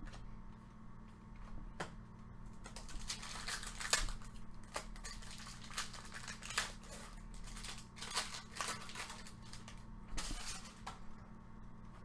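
Stadium Club baseball trading cards being handled: a run of short rustles, scrapes and clicks as cards are slid and flipped, in irregular clusters over a steady low hum.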